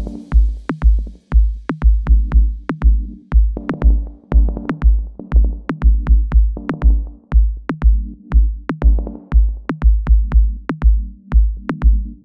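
Dub techno track. A steady drum-machine kick plays a little over two beats a second under a low, repeating chord, with sharp percussive clicks above.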